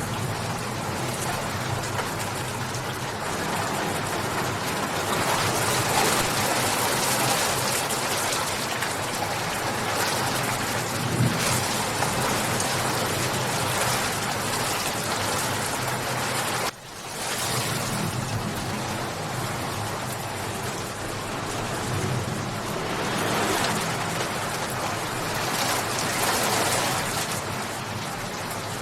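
Steady, dense rain falling, with a brief sudden dip in loudness a little over halfway through before it returns.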